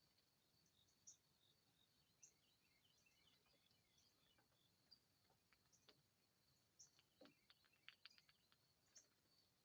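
Faint, distant wild birds chirping in short, scattered high notes over a thin steady high hum, with a quick run of sharp ticks about seven to eight seconds in.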